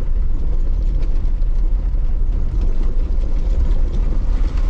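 Jeep Wrangler LJ driving on a rough mountain track: a steady low rumble of engine and road noise, with faint small knocks over it.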